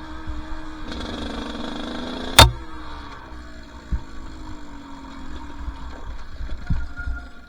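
Two-stroke dirt bike engine on the trail, getting on the throttle, then easing off with its note slowly falling. A loud sharp knock about two and a half seconds in, with a few smaller knocks later.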